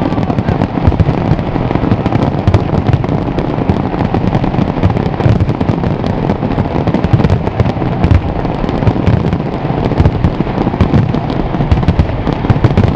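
Large aerial fireworks display at full barrage: a dense, unbroken run of bangs and crackles, many each second.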